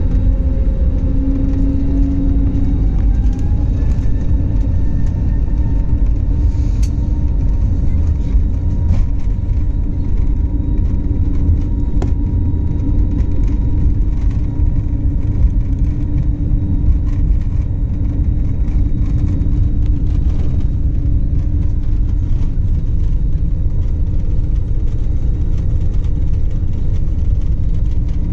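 Jet airliner noise heard from inside the cabin during takeoff: a loud, steady rumble with an engine whine that rises in pitch over the first few seconds, then holds steady.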